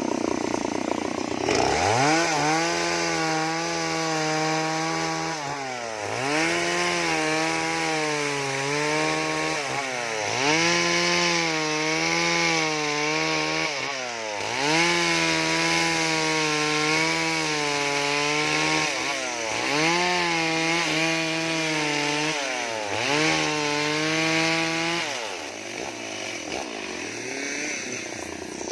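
Chainsaw cutting into wood, its engine revved up and held at high speed over and over, about six bursts of a few seconds each. Near the end it drops back to a lower, quieter run.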